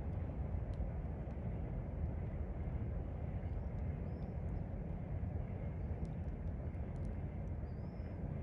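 Steady low outdoor rumble, like distant vehicle or train noise, with a few faint bird chirps and a few small clicks.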